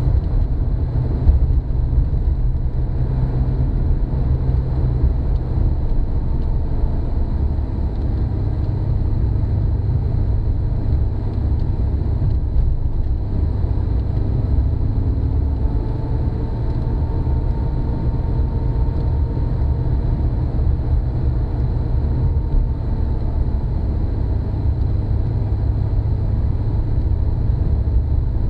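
Opel Commodore C under way, heard from inside the cabin: a steady low engine drone with road noise, the engine note rising and falling a little as the car climbs and turns.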